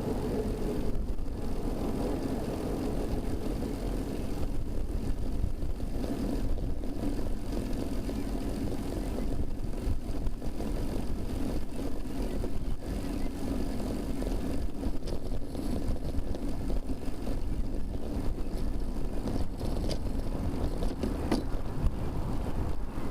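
Steady rumble of traffic and wind noise picked up by a camera mounted on a moving bicycle, with a couple of brief sharp ticks near the end.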